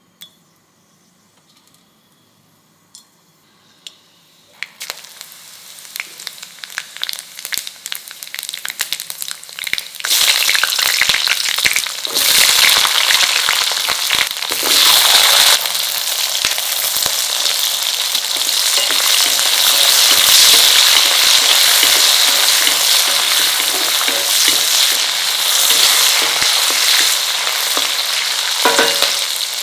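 Oil frying in a cooking pot. There are a few faint pops at first, then a crackle that builds over several seconds, and from about ten seconds in a loud, steady sizzle.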